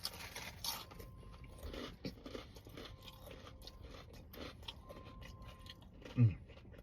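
Close-up chewing of a mouthful of crunchy food, a steady run of small crunches and crackles, with a short hum from the eater about six seconds in.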